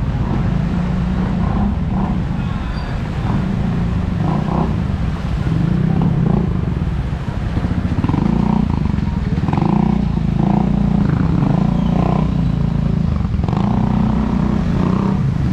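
A motor vehicle engine running close by as a steady low drone, with people's voices faintly in the background.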